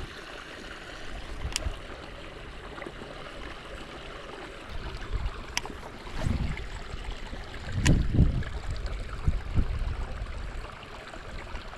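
Creek water running steadily, with a few low thumps about halfway through and some scattered sharp ticks.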